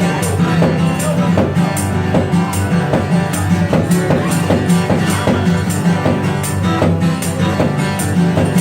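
Live band playing an instrumental break: guitar over drum kit and bass, with a steady beat.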